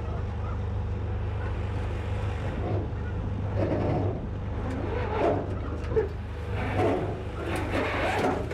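A motor running steadily with a low hum, with intermittent louder clatter or distant voices over it from about a third of the way in.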